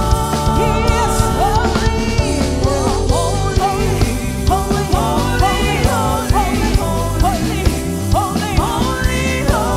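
Worship band music: a full band with bass and drums under held chords, with a voice singing gliding, ornamented lines over it.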